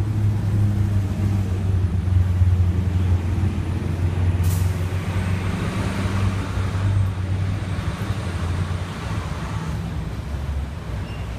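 A motor vehicle engine running with a low, steady rumble amid road traffic. There is a brief sharp click about four and a half seconds in.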